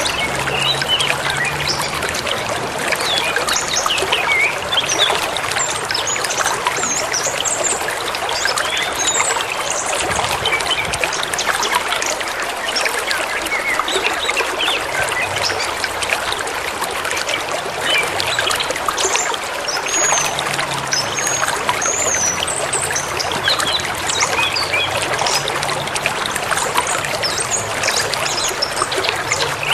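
Forest river flowing steadily over rocks, a constant splashing rush, with many small birds chirping and whistling over it throughout.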